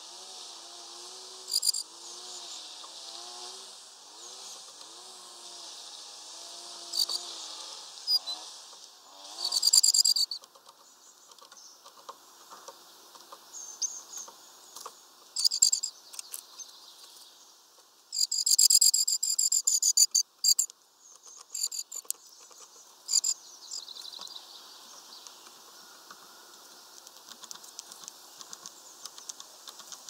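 Small birds giving short, high calls in scattered bursts, loudest about ten seconds in and in a fast run of calls from about eighteen to twenty seconds, over a steady high hiss.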